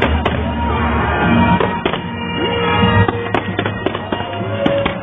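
Fireworks crackling and popping, with fountain fireworks spraying up from the river, over music playing throughout.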